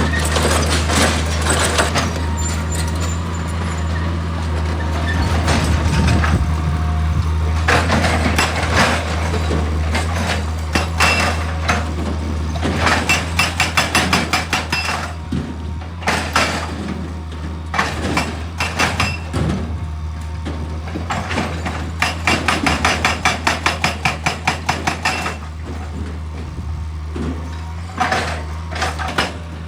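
Excavator's diesel engine running steadily, with bursts of rapid repeated knocking lasting a few seconds each, about twice, and louder clattering in between.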